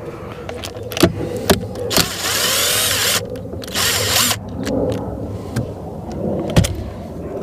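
Cordless drill-driver run twice in short spells, about a second and then half a second, loosening screws, among sharp clicks and knocks of parts being handled.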